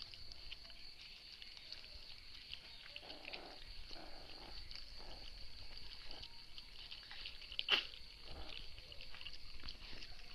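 A mother dog and her puppies eating: many small, irregular chewing and lapping clicks, with one sharper click about eight seconds in. A faint steady high-pitched tone runs underneath.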